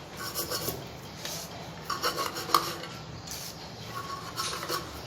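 Scraping and rubbing on metal in several short, irregular bouts, with a faint metallic ring, as on a corroded compass being worked clean.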